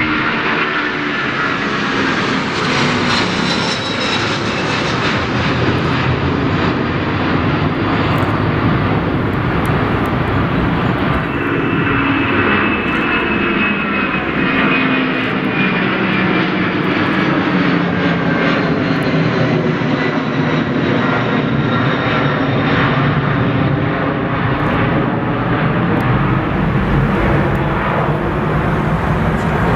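Jet airliner engines running loud and steady close by: a continuous roar with thin whining tones that drift slowly in pitch.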